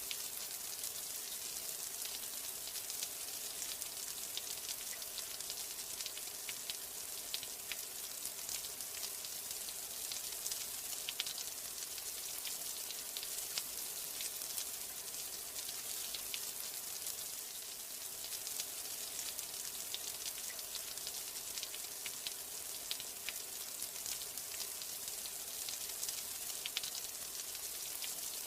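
Steady rain: a dense high hiss with countless small droplet ticks, unchanging throughout.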